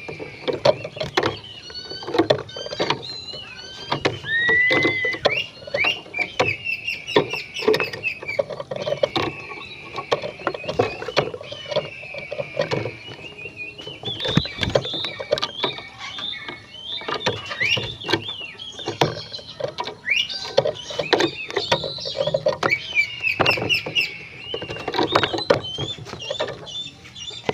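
Oriental magpie-robin (kacer) singing vigorously and without pause: a fast, varied run of whistles, chirps and quick up-and-down pitch sweeps, mixed with sharp clicking notes.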